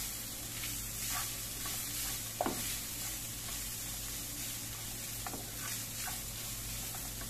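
Shredded chicken and onion filling sizzling in a non-stick frying pan while it is stirred and pushed around with a spatula, with light scraping strokes. There is one brief falling squeak about two and a half seconds in.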